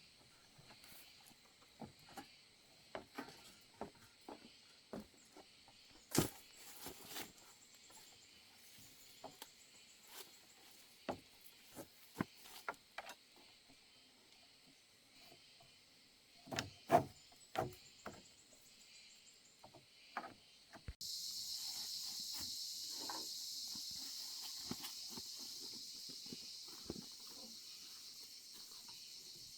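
Scattered light knocks and clicks, then, about two-thirds of the way in, a steady high-pitched insect buzz starts suddenly.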